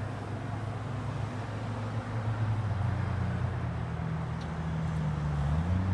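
Steady low motor hum with a few held tones, which shift up in pitch and grow a little louder near the end.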